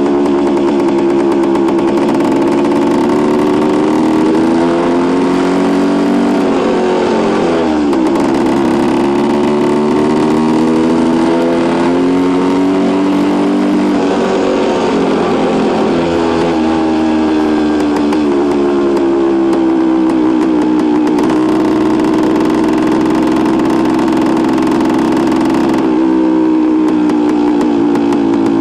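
1973 Suzuki TS250's two-stroke single-cylinder engine running under way. Its pitch rises and falls over and over as the revs change, with several sudden drops.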